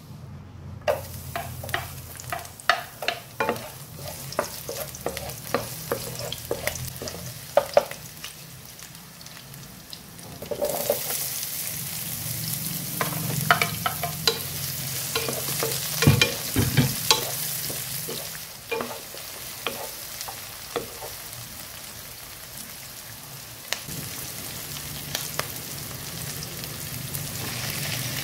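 Garlic cloves frying in hot oil in a nonstick wok, crackling and popping. About ten seconds in, sliced red onions go in, the frying turns into a fuller, steadier sizzle, and the pan is stirred, with a few knocks.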